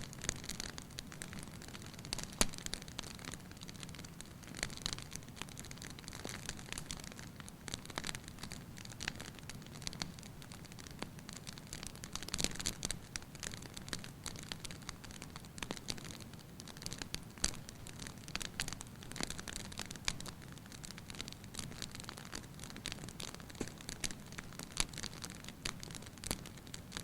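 Wood fire burning in a fireplace, crackling with frequent irregular sharp pops over a steady low hiss.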